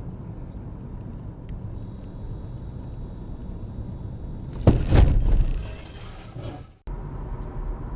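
Steady road rumble of a car heard from a dashcam, with a faint high steady tone for a couple of seconds, then a sudden loud bang of a vehicle collision a little past halfway that dies away over about a second.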